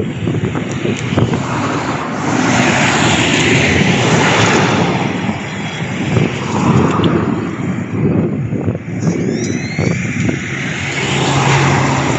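Jet airliner passing close by: a loud, continuous rushing of engine noise that swells and eases over several seconds.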